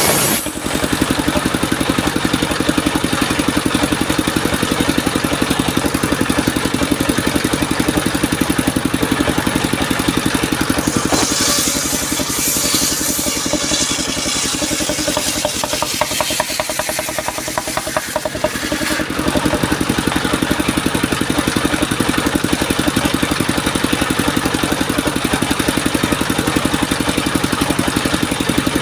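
Engine-driven circular sawmill running steadily. A brighter hiss comes in about 11 seconds in, and the engine's low note weakens for a few seconds around 16 to 19 seconds in before returning.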